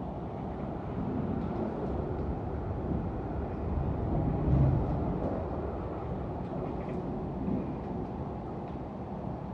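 Steady rumble of a double-deck electric multiple-unit train running at speed, heard from inside the carriage. The rumble swells briefly about halfway through.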